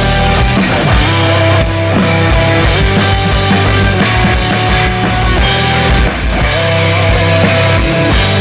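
Rock band playing an instrumental passage without vocals: a steady drum beat under bass and sustained guitar notes.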